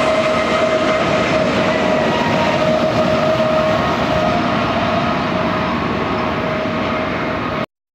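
Freight train rolling past on steel rails: loaded gravel hopper cars, then the rear GE distributed-power diesel locomotive going by and moving away, a dense rumble with steady high tones ringing over it. The sound cuts off abruptly just before the end.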